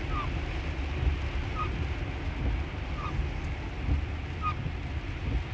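Windshield wiper blade squeaking across wet glass, a short chirp about every second and a half, over steady tyre and road rumble heard from inside the car.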